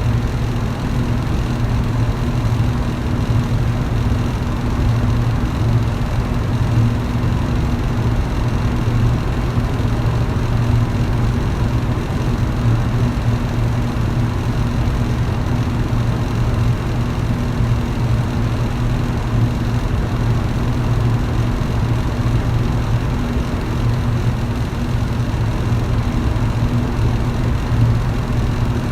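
Electric fan running steadily: a low motor hum under an even rush of air.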